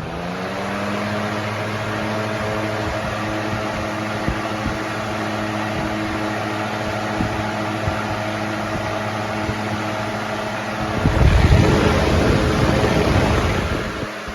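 Lasko Weather-shield box fan with a 3733 blade set, its motor humming at a steady pitch over a rush of air as it settles to speed at the start. About eleven seconds in, a louder, rougher rumble of air lasts for two or three seconds, then eases back.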